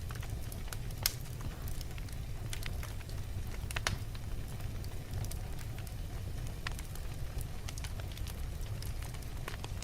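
Wood fire burning in a fireplace: a steady low rumble of the flames with scattered sharp crackles and pops, a louder pop about a second in and another near four seconds.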